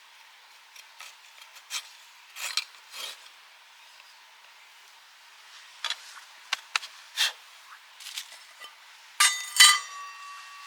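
Metal cookware and utensils handled at camp: short scraping and rubbing strokes, then near the end two sharp metal-on-metal clinks that ring on with a clear tone.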